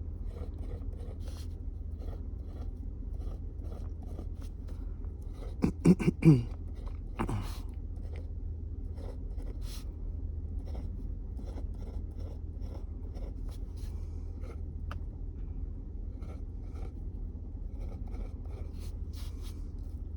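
Pen scratching and tapping on a paper form as items are marked off, over a steady low hum. About six seconds in there is a brief voiced sound, the loudest thing heard.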